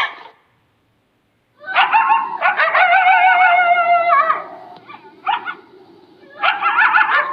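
An animal's long, wavering, high-pitched calls, starting about one and a half seconds in after a brief silence. There are several in a row, with a short call midway.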